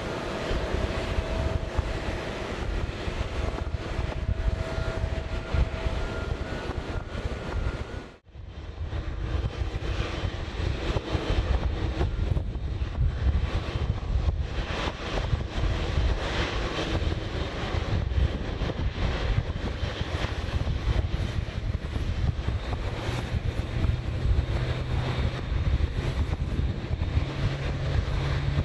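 Airliner engines running, a loud steady rumble, with a sudden brief gap about eight seconds in where the sound cuts out and returns.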